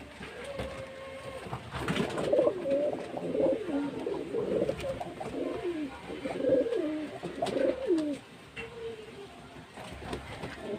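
Pigeons cooing: a run of repeated low, falling coos, then quieter near the end, with a few light clicks.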